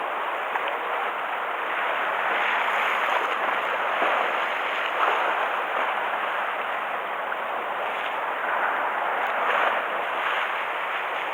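Typhoon-roughened sea waves washing and splashing against the harbour shore in a continuous rush, swelling in surges every few seconds.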